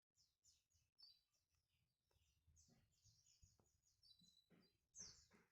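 Small songbirds chirping faintly, many short high notes that fall in pitch, repeated in quick runs.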